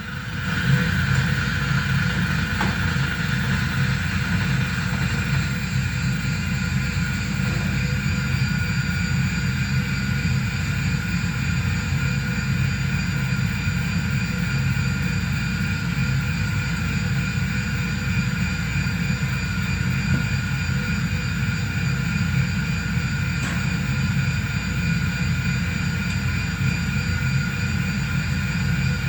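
Noise-rig drone from mixer feedback and tape reverb: a dense low rumble with several steady high feedback tones held over it, barely changing throughout.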